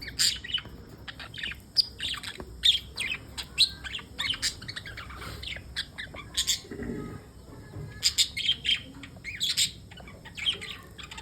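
Pet budgerigars chirping, many short chirps following one another quickly with brief lulls.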